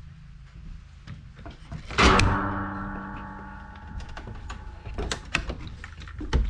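A sharp metallic clang about two seconds in that rings on and fades over roughly two seconds, like a piece of metal struck or dropped. Scattered clicks and knocks of work handling come before and after it.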